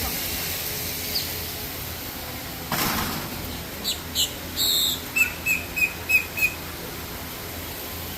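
A bird calling: a few high chirps, then a run of five quick, evenly spaced notes at about four a second. A brief rush of noise comes about three seconds in.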